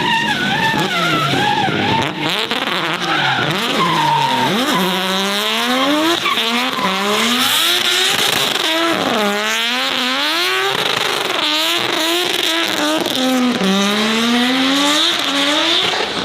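Race car engine revving hard, its pitch climbing and then dropping again several times, with tyres squealing and skidding.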